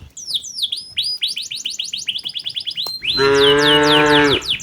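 Cow mooing once, a long steady call starting about three seconds in, over birds chirping in quick repeated high notes.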